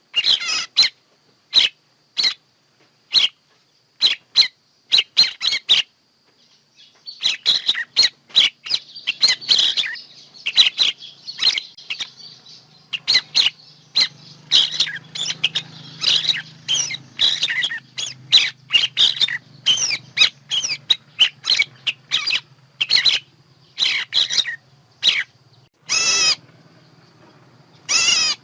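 Bird calls played as a trapping lure: many short, sharp, high chirps in quick runs, thicker from about seven seconds in, with a faint low hum under them. A longer, louder call comes near the end.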